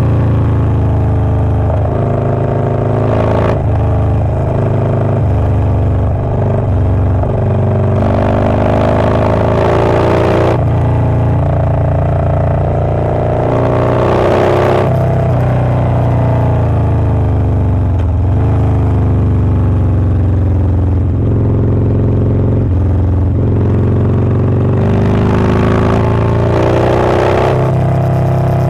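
Harley-Davidson Low Rider S's 117 cubic-inch V-twin with a Wood Performance 777XE cam, running under load. The revs rise and fall repeatedly, with breaks where the throttle is rolled off or gears change.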